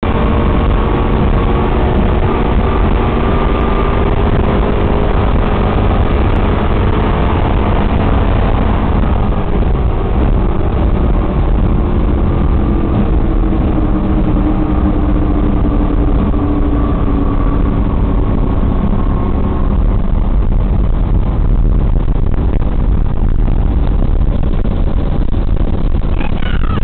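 Engines of a high-performance racing catamaran running hard at speed: a steady, loud drone over a heavy low rumble, with the engine tone shifting slowly in pitch.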